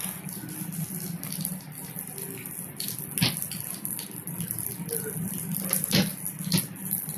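Steady rain, with three sharp taps of drops striking a hard surface, about three seconds in and twice around six seconds.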